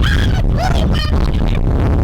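Strong wind buffeting the microphone in a loud, rough rumble, with a few short high-pitched cries over it in the first second or so.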